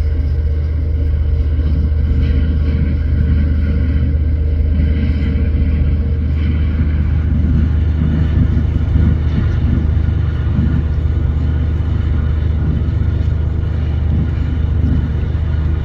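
Diesel engine of the motor vessel RT-178 running steadily, a loud, deep, even drone with a rougher rumbling over it.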